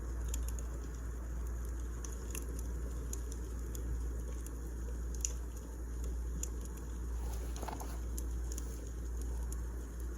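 Wood fire crackling in a fireplace: a steady low rumble and hiss with scattered sharp pops and crackles, one pop louder about five seconds in.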